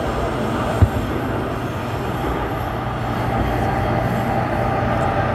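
Airport Railroad commuter train running along the track: a steady rumble of wheels and running gear with a low hum, and a single knock about a second in.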